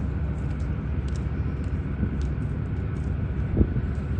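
Floatplane's propeller engine droning steadily, with a single short thump about three and a half seconds in.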